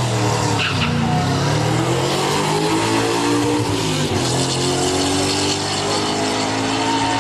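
Old Ford farm truck's engine at full throttle down a drag strip, its pitch climbing and then dropping sharply twice as it shifts up through the gears.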